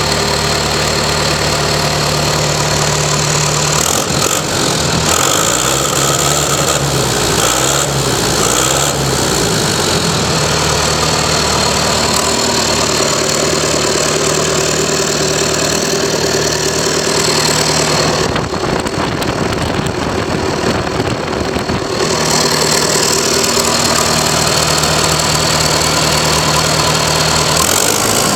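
Perkins 1004-40T four-cylinder turbocharged diesel engine running steadily just after starting, its speed shifting a few times.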